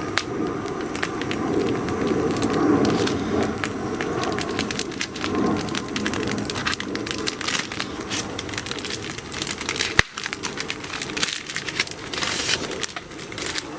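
Wood bonfire crackling, with many small irregular pops and one sharp, loud crack about ten seconds in.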